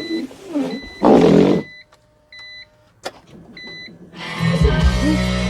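BMW Z4 ignition switched on without starting the engine: clicks, a short burst of noise about a second in, and a string of short high electronic beeps, with a steady louder sound coming in after about four seconds.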